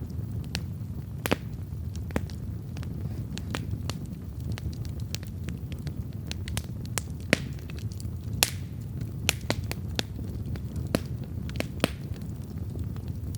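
Wood campfire burning: a steady low rumble of flames with sharp pops and crackles of burning wood at irregular intervals, a few louder snaps about seven and eight and a half seconds in.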